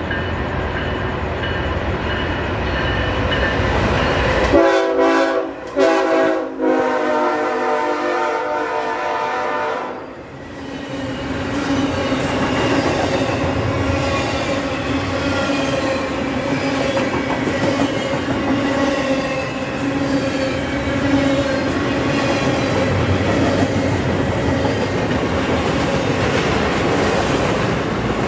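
Freight train approaching and passing close by: the locomotive's chord horn sounds several blasts, the last held about three seconds. Then the double-stack container cars run past with a steady rumble and clatter of wheels on the rails.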